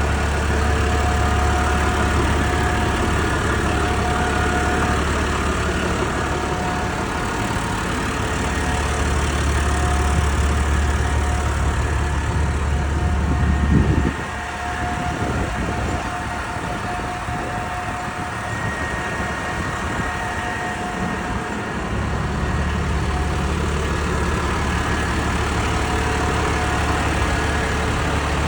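Massey Ferguson 7370's six-cylinder AGCO Power 620 DS diesel engine idling steadily. About halfway there is a brief knock, after which the deep engine note is much weaker for several seconds before it returns.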